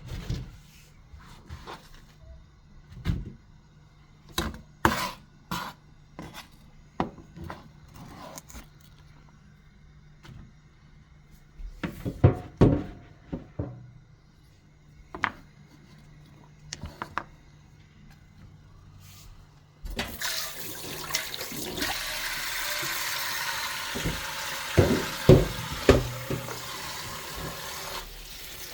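Scattered knocks and clicks of kitchen handling. About two-thirds in, a tap is suddenly turned on and water runs steadily, with a few clunks near the end.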